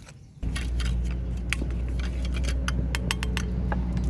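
Light clinking and jingling of small metal or glass objects over a loud, steady low hum that starts abruptly about half a second in.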